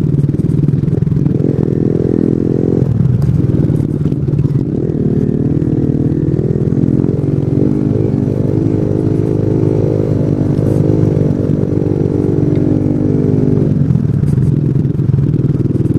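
Single-cylinder 125cc mini motorcycle engine running while riding, its pitch rising and falling repeatedly with the throttle.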